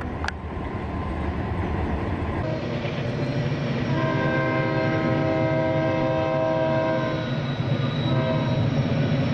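Freight train running with a steady rumble, then its locomotive horn sounding a long chord of several tones about four seconds in, easing briefly and blowing again near the end.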